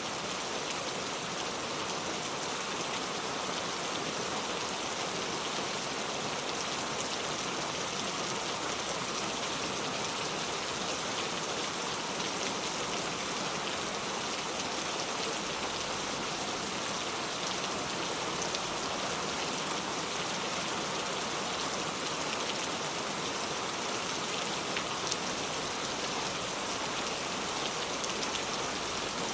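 Steady rain falling, an even hiss with fine drop ticks and no let-up.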